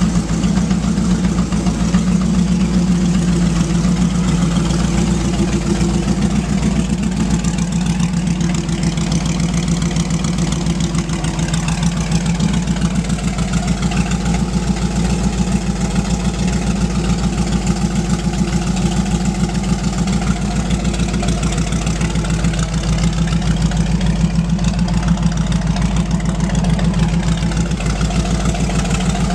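Supercharged V8 hot rod engine idling steadily, with no revs.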